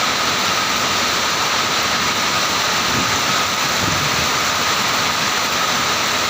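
Heavy rain pouring in strong wind: a loud, steady rushing hiss.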